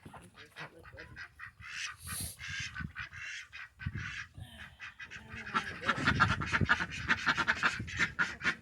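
Ducks quacking, with repeated short calls that grow busier and louder in the second half.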